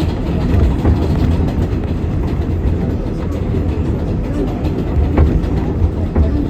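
R188 subway train running between stations, heard from inside the car: a steady, loud low rumble of wheels on rail, with a few sharp clicks over rail joints, two of them near the end.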